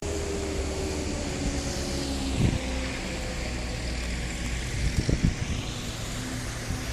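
Vehicle engine running steadily under a high, even hiss of light rain, with two brief thumps, about two and a half and five seconds in.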